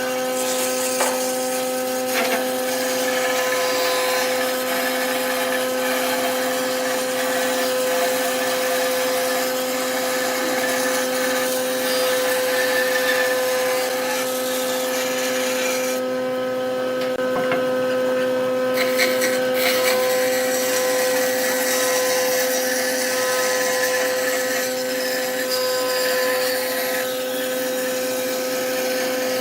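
Wood lathe motor running with a steady hum while a turning tool cuts the spinning wood with a continuous hiss. The cutting hiss stops for about three seconds past the middle while the motor hum carries on, then resumes.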